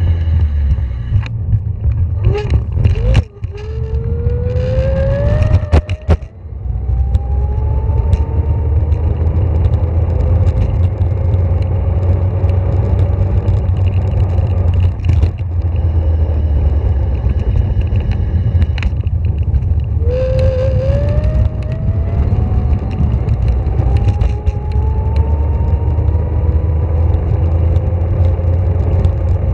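Electric scooter being ridden: its motor whine rises in pitch as it speeds up, twice, a few seconds in and again about twenty seconds in, over a steady heavy rumble of wind and wheels on the road. A couple of sharp knocks come around three and six seconds in.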